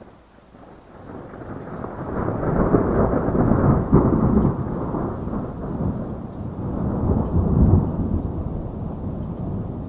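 A long roll of thunder that builds from about a second in, peaks twice and slowly fades, under steady rainfall.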